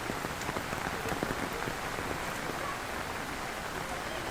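Heavy rain falling steadily, a dense hiss with many scattered drop ticks splashing on hard surfaces.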